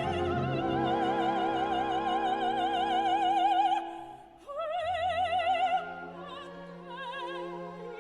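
Operatic singing with orchestral accompaniment: long held notes with a wide vibrato, a brief break about halfway, then a softer passage.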